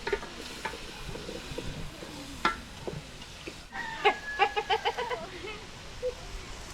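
An animal calling in a quick run of short, pitched notes about four seconds in, after a single sharp knock.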